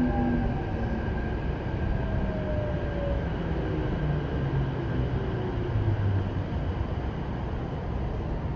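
Running sound inside a Keikyu 1000-series electric train car with Mitsubishi full-SiC VVVF control: a steady rumble of wheels on track, with the traction motors' whine falling in pitch through the first six seconds as the train slows.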